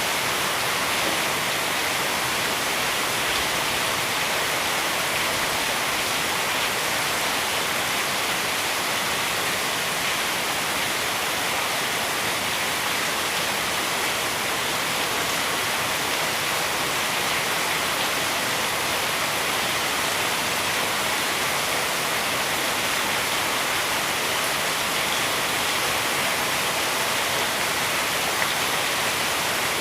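Heavy rain pouring down in a steady, dense hiss that holds the same level throughout.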